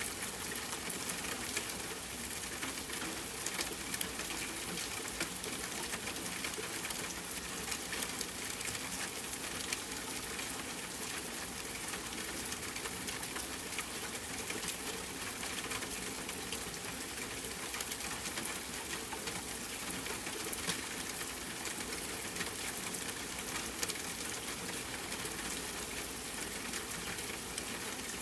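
Steady rain falling, an even hiss with a dense patter of small drop ticks.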